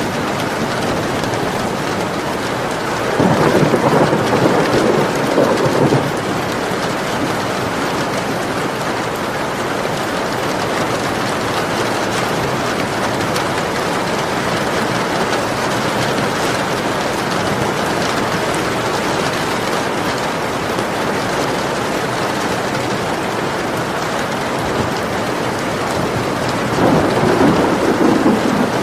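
Steady rain falling, with two low rolls of thunder: one starting about three seconds in and lasting about three seconds, another near the end.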